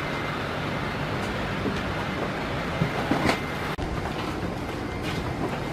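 Steady rumble and hiss of a Boeing 787-8 Dreamliner cabin after landing, with a few light knocks about three seconds in and a sudden break just before four seconds.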